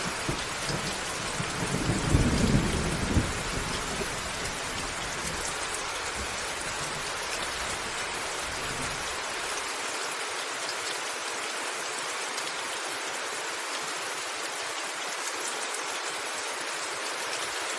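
Steady heavy rain on a roof with thunder rumbling, loudest about two seconds in, then fading away by about ten seconds in, leaving only the even hiss of the rain.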